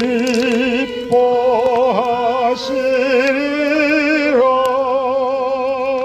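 A slow worship song sung by a small group to violin accompaniment: a few long notes held with wide vibrato, closing on a long held final note.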